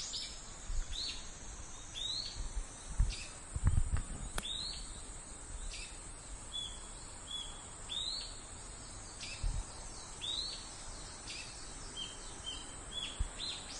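Cicadas droning in a steady high buzz, with a bird repeatedly giving short chirps about once a second over it. A few low thumps come about three to four seconds in.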